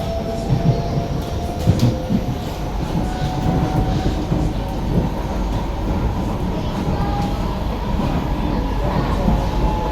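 SMRT C151B metro train running between stations, heard from inside the car: a steady low rumble of wheels on the track, with a thin traction-motor whine that slowly rises in pitch as the train gathers speed.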